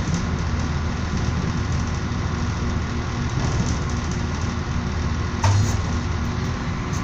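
Moving train heard from inside the passenger carriage: a steady running rumble with an engine-like hum, and one short louder knock about five and a half seconds in.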